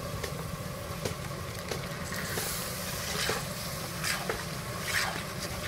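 Onion, ginger-garlic and tomato paste sizzling in hot oil in a large aluminium cooking pot, with a steady hiss over a low rumble. A metal ladle stirs through it, giving a few light scrapes and knocks.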